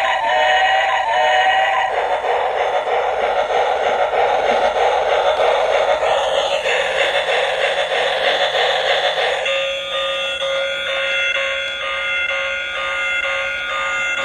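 Tinny electronic music with a short melody, then an even whirring noise, then a steady electronic buzzing tone from about two-thirds of the way through.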